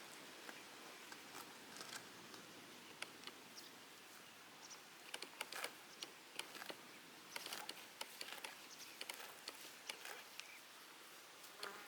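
Faint, irregular rustling and crackling clicks from grazing cows and sheep, coming thicker in the second half.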